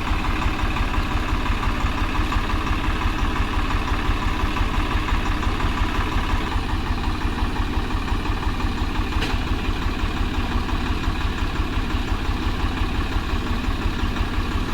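Tractor diesel engine running steadily, with a fast, even low throb that does not change in speed or level.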